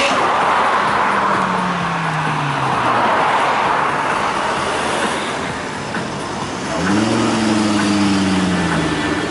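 Tuned Ford Focus RS Mk2's turbocharged 2.5-litre five-cylinder engine: its note falls steadily as the car slows. About seven seconds in, the revs jump sharply as it pulls away under acceleration, then ease down.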